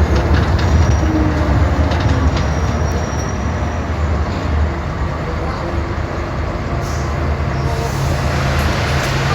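Scania K 360 city bus running, a deep steady engine rumble that eases slightly midway, with a low steady hum joining in near the end.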